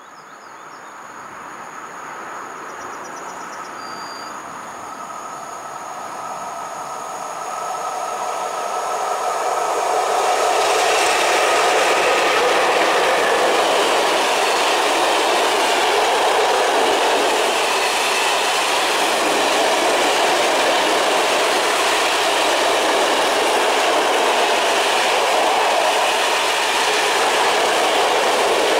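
Freight train of open coal wagons, hauled by an ET42 electric locomotive, passing close by on the near track. The wheel noise on the rails grows louder over the first ten seconds, then holds steady as the wagons roll past.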